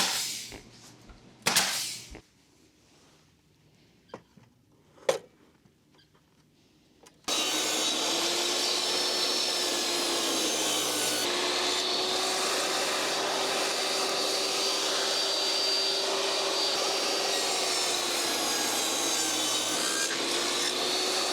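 A few light knocks, then an electric power tool starts abruptly about seven seconds in and runs steadily on wood, with a slightly wavering motor hum under the noise.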